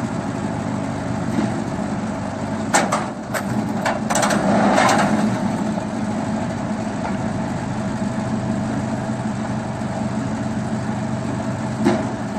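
Firewood splitting machine running steadily with a constant mechanical hum. A few sharp knocks come about three seconds in, then a louder burst of noise around four to five seconds, and another knock near the end.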